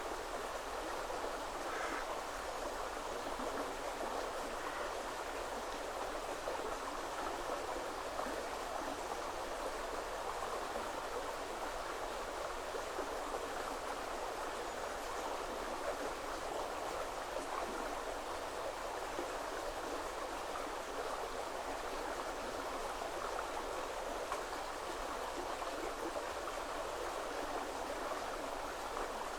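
River water flowing: a steady, even rush and babble of running water.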